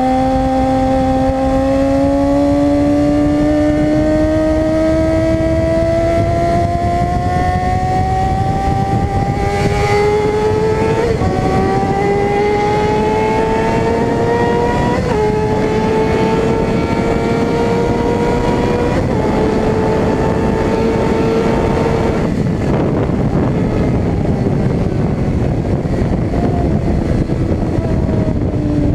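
Suzuki GSX-R 600 inline-four running at high revs on a track, its pitch climbing steadily for a long stretch under throttle with brief hitches. About two-thirds of the way through the throttle is rolled off and the engine note drops, with heavy wind rush throughout.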